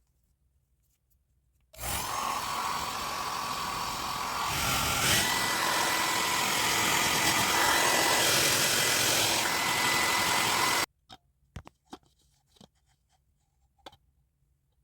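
John Frieda hair dryer blowing steadily with a motor whine, switched up to a higher setting a few seconds in, where the whine steps up in pitch; then switched off abruptly, followed by a few light clicks.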